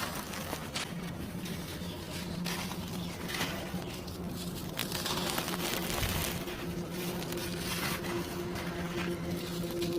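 Dry cement crumbling and crunching in irregular gritty crackles, with a steady low hum underneath.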